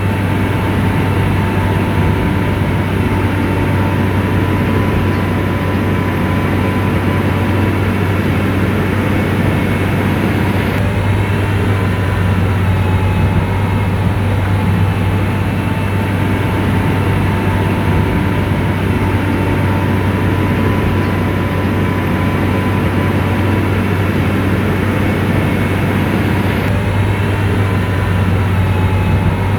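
Komatsu bulldozer's diesel engine running steadily under work: a deep, constant hum with a faint steady whine above it.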